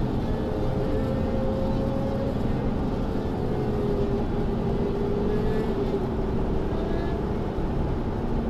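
Motorcycle engines running steadily, a group of bikes heard together, with a few slowly shifting engine tones.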